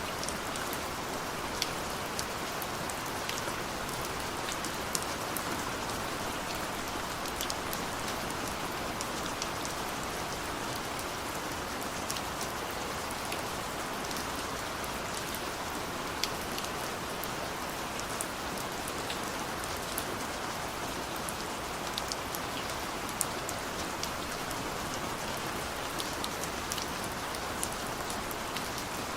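Steady rain falling, an even hiss with scattered sharp drips and patters of drops striking a surface.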